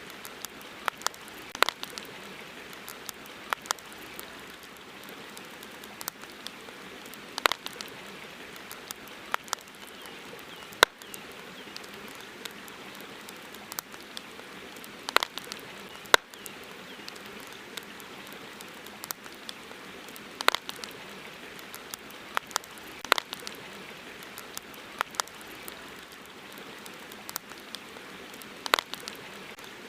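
Wood campfire crackling, with irregular sharp pops scattered through, the two loudest about eleven and sixteen seconds in, over a steady hiss of river water.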